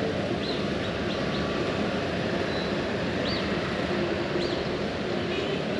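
Steady rushing noise, with about half a dozen short, high chirps from a bird scattered over it.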